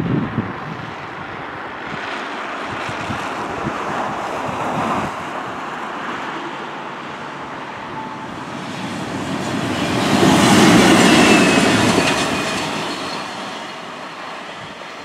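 A train approaching and passing, its wheel and rail noise building to a peak about ten to twelve seconds in, with a faint whine that drops slightly in pitch as it goes by, then fading as it moves away.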